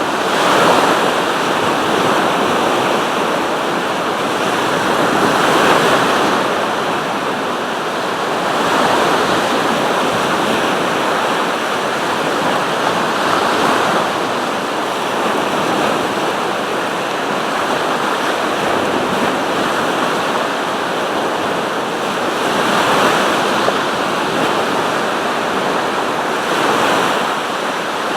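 Sea surf: waves washing onto the shore in a steady noise that swells each time a wave breaks, every few seconds.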